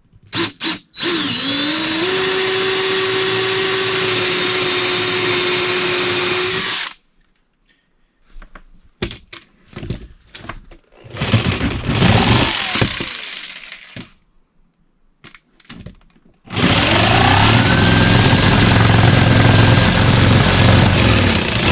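Power tool cutting a hole through the cabin's wooden floor, run in spurts: it spins up about a second in and runs steadily for about six seconds, stops, gives several short bursts and winds down, then starts again near the end and speeds up.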